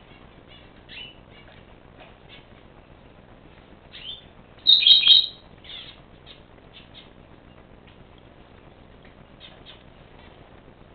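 Pet birds chirping with soft, short calls throughout, and a loud burst of three quick harsh calls about five seconds in.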